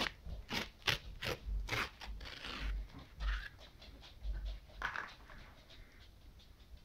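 Crunching and chewing close to the microphone: sharp crackles in the first two seconds, then softer, scattered crunches, as the crunchy coating of an ice cream cone is bitten and chewed.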